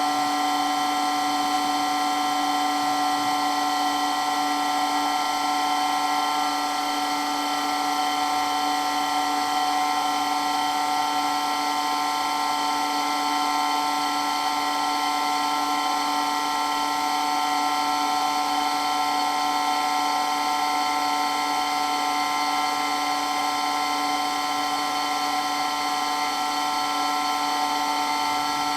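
Water pump running steadily with a high, unchanging whine made of several steady tones over a motor hiss.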